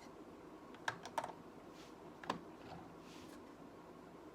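Plastic Lego pieces clicking together as a roof is pressed into place: a few faint, sharp clicks, two about a second in and two more a little past two seconds.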